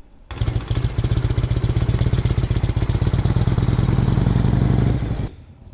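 Harley-Davidson V-twin motorcycle engine running with a fast, even exhaust beat. It starts just after the beginning and cuts off suddenly near the end.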